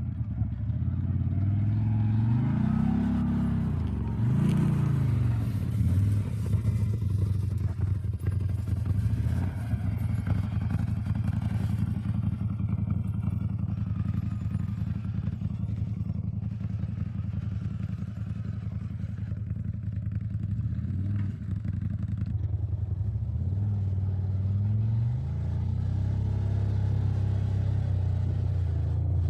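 CFMoto off-road vehicle's engine running on the move, revving up and back down a few times: around two to five seconds in, again about twenty-one seconds in, and once more a few seconds later. Some clattering rides over the engine in the middle part.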